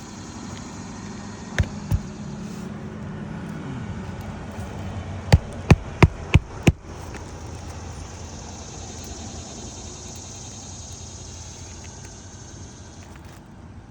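Roofing nails being driven to refasten a shingle: two sharp strikes, then a quick run of five a few seconds later, over a steady low background hum.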